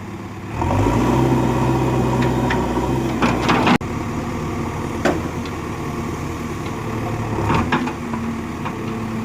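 Tractor engine running, picking up revs about half a second in, with a few sharp metallic clicks and knocks over it.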